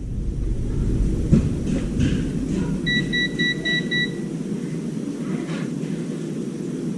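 A quick run of about five short, high electronic beeps about three seconds in, over a steady low hum.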